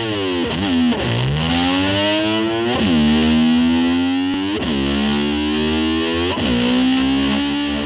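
Distorted electric slide guitar swooping down in pitch and gliding back up, again and again about every two seconds, in imitation of a revving motorcycle.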